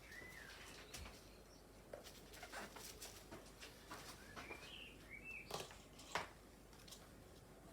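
Faint short bird chirps, a few scattered through the quiet, with light clicks and taps.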